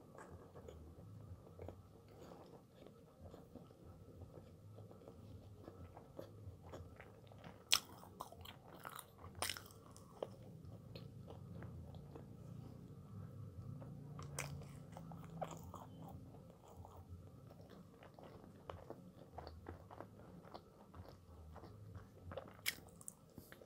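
Faint, close-miked chewing and biting of a dense seeded chestnut bread, with soft wet mouth clicks. A few sharper crunchy bites come about eight to ten seconds in and again near the end.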